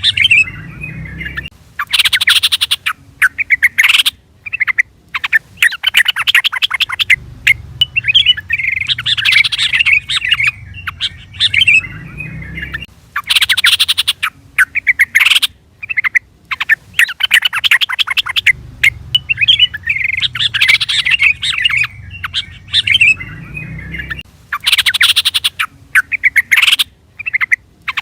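Yellow-vented bulbul (trucukan) calling: bubbly, chattering phrases of quick chirps with short pauses between them. The same sequence of phrases repeats about every eleven seconds.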